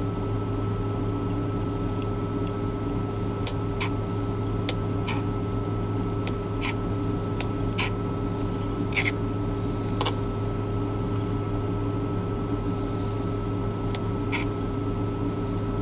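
Steady low mechanical hum inside a truck cab, with scattered sharp clicks and light knocks from kitchen utensils and containers during food preparation, about one every second or two.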